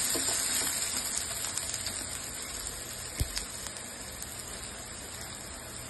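Diced potatoes and cumin seeds sizzling in ghee in a nonstick pan: a steady hiss with scattered small crackles, slowly fading. A single soft knock about three seconds in.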